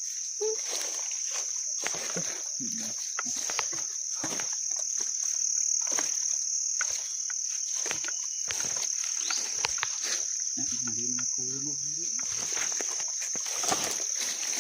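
Insects trilling in one continuous high, even drone, with scattered short clicks and crackles throughout.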